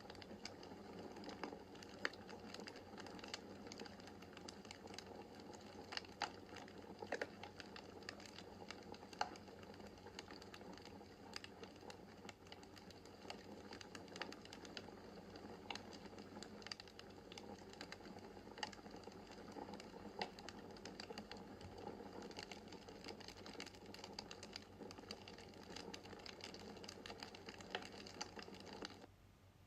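Wood fire crackling in a fireplace: a faint steady hiss of flames with frequent sharp, irregular pops and snaps from the burning logs. The crackling cuts off suddenly just before the end.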